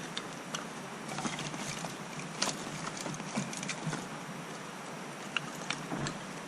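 A small campfire crackling, with sharp pops and snaps every second or so over a steady hiss.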